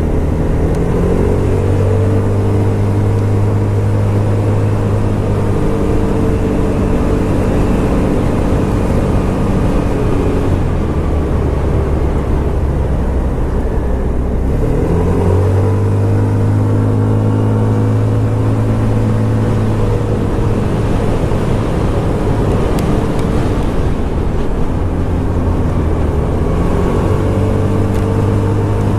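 Scomadi TT125 scooter's 125cc engine under way: the engine note climbs and holds steady, eases off around ten seconds in, picks up again about five seconds later, drops back near twenty-one seconds and climbs once more near the end. Wind and road noise run underneath.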